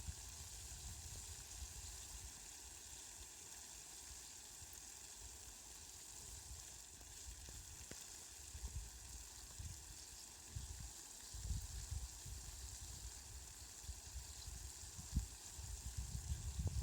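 Steady, soft hiss of falling rain. Low rumbling swells come and go, mostly in the second half.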